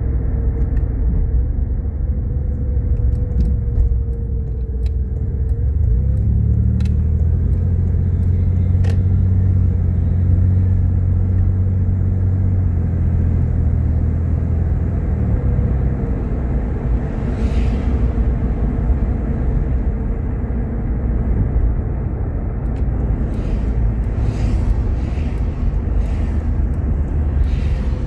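A car being driven: steady engine and road rumble, heavier and deeper for several seconds in the middle, with a few light ticks and short hisses.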